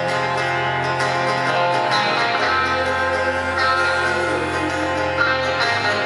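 Live band music from a concert: acoustic guitar and band play with voices singing, a steady bass line changing note twice.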